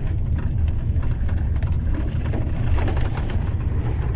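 Steady low rumble of a truck's diesel engine and tyres, heard inside the cab while driving under way.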